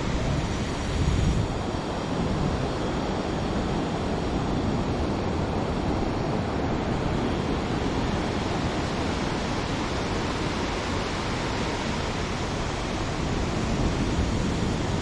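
Ocean surf washing onto a sandy beach in a steady rush, mixed with wind on the microphone.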